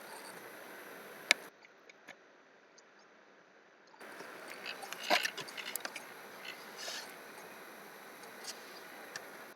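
Clicks and taps of a computer mouse and keyboard: one sharp click about a second in, then a quick flurry of clicks around the middle and a few scattered ones near the end.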